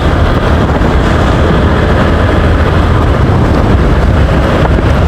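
TVS Apache RTR motorcycle being ridden: a steady engine and road rumble with wind buffeting the microphone.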